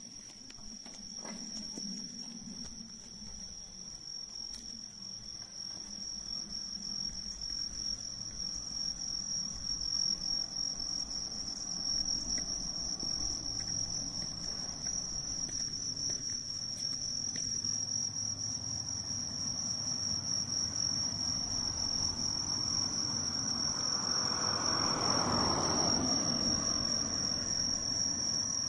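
Bell crickets (suzumushi) singing, a steady high-pitched ringing that holds without a break.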